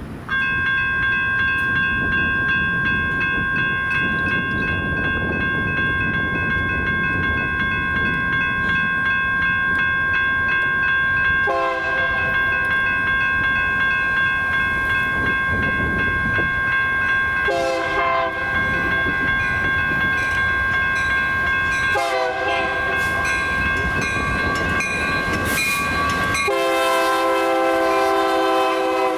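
Railroad crossing signal's General Signals electronic bells start ringing suddenly, announcing an approaching train, with the rumble of the train underneath. A diesel locomotive horn sounds four times, the last blast long, as the train nears the crossing.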